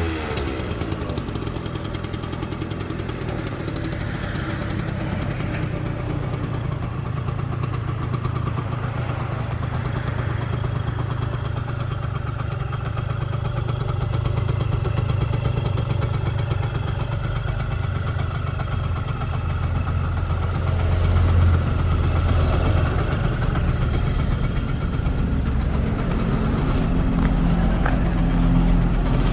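1981 Yamaha RZ50 (5R2) 50 cc two-stroke single idling steadily through its stock exhaust after a rev has died away, with a brief swell in idle speed about two-thirds of the way through.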